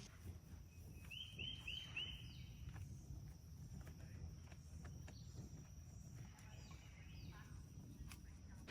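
Faint outdoor ambience: a bird gives four quick chirps about a second in and a few fainter ones later, over a steady high-pitched drone and a low background rumble.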